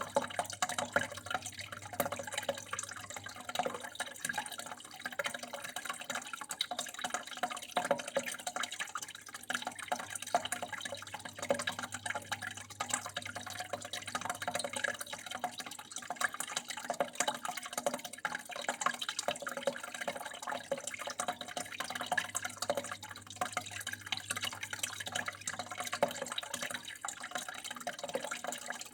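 Water flowing and splashing steadily, with many small drips and droplets falling, over a faint low hum.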